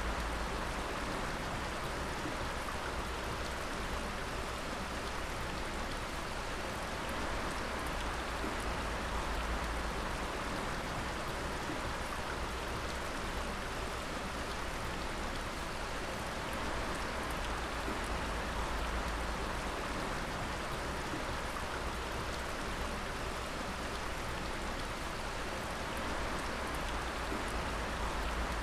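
Water dripping and splashing steadily, a dense patter of drops over a continuous rush of water, with a steady low rumble underneath.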